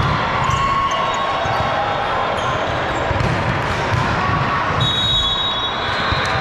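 Game sounds on an indoor court: a ball thudding on the hardwood floor, sneakers squeaking and a crowd murmuring.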